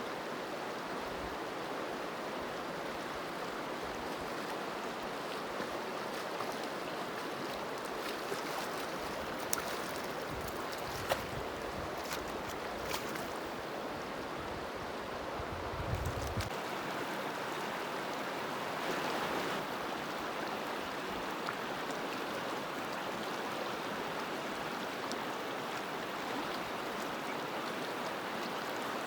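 Running water of a stream flowing steadily, with a few small clicks and a low thump about halfway through.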